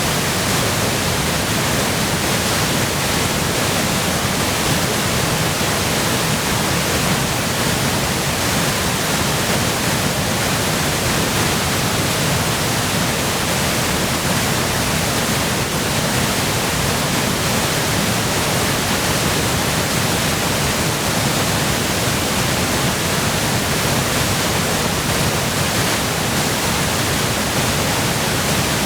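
Waterfall in full spate from spring melt and heavy rain: a loud, steady rush of falling water that holds even.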